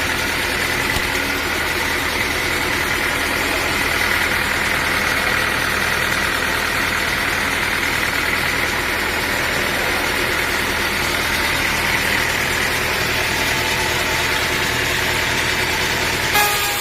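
A sawmill's engine running steadily at idle, a low even hum with a higher band of whine above it. The sound changes abruptly just before the end.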